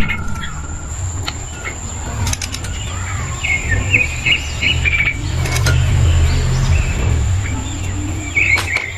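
Small birds chirping outdoors in a few short bursts, over a steady high-pitched whine and a low hum, with occasional light clicks.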